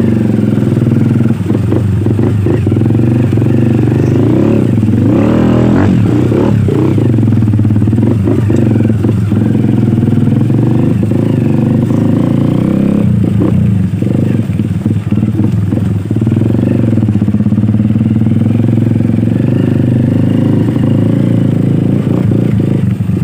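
Enduro dirt bike engine running at low revs, its pitch rising and falling with the throttle, with clusters of clattering knocks from the bike over rough ground about five to seven seconds in and again about thirteen to fifteen seconds in.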